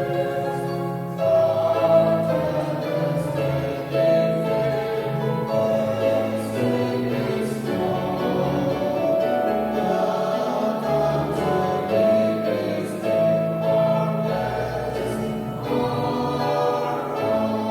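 A choir singing a slow Christian song in long held notes.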